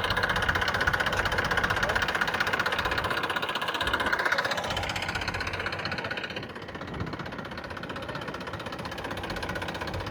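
Tractor engine running with a steady rhythmic chug. It is louder for the first half, then drops off about halfway through and runs on more quietly.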